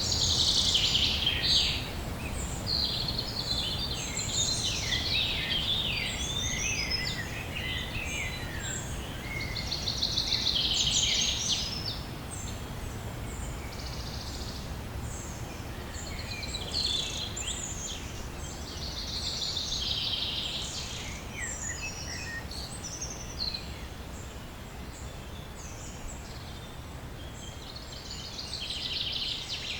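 Several small songbirds singing: overlapping chirps and rapid buzzy trills that come back every few seconds, over a faint low rumble.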